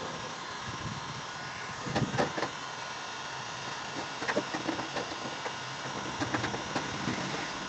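Short sharp knocks or clicks in small clusters about two seconds in, again around four seconds and six to seven seconds in, over a steady background hum.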